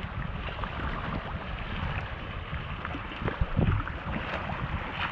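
Sea swell surging and sloshing in a sea cave around a kayak, with wind on the microphone; a louder surge about three and a half seconds in.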